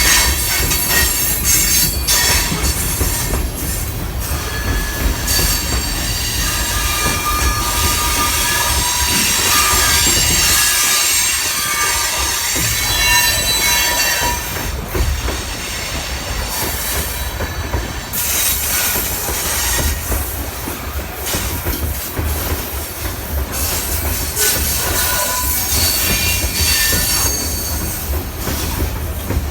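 Freight cars rolling past at speed, with metallic wheel and flange squeals heard several times between about 5 and 14 seconds in and again near the end, over steady rumble and clatter. Wind buffeting the microphone adds a heavy low rumble.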